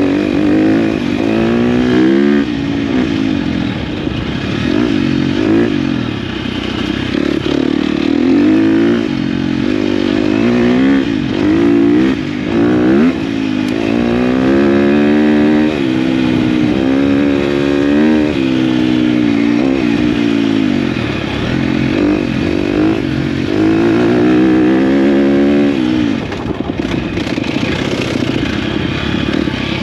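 KTM dirt bike engine under load, revving up and dropping back again and again as the rider works the throttle and shifts gears. The throttle eases off briefly about 26 seconds in.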